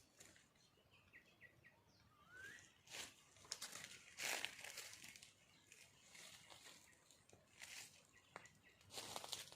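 Faint rustling noises in a handful of short bursts, with a few faint bird chirps, one of them a short rising note early on.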